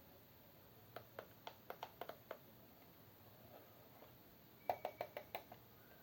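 A series of light, sharp clicks and knocks in two short clusters, about a second in and again near five seconds in, like small hard plastic parts being handled.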